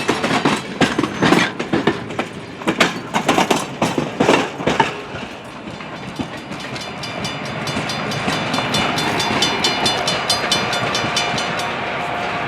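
Railroad cars rolling past close by: the wheels clatter over the rail joints with loud, irregular knocks for the first few seconds, then a rapid, regular clickety-clack as the rest of the train goes by.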